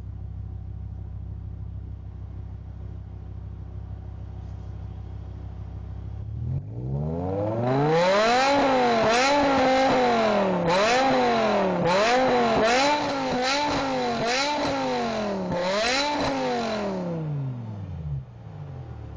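Car engine through a Tubi-style aftermarket exhaust idling, then revved repeatedly: a run of rev blips, each rising and falling in pitch, starting about a third of the way in and dropping back to a steady idle near the end.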